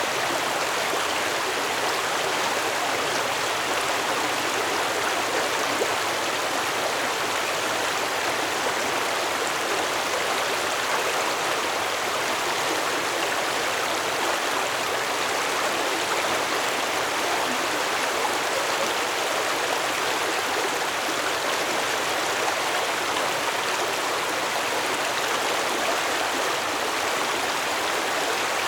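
Stream water flowing steadily, a constant rushing babble with no breaks or changes.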